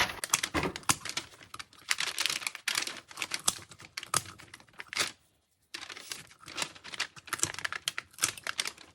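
Kitchen shears snipping and crunching through a raw chicken's rib bones along the backbone, a quick run of sharp clicks with a brief break about halfway.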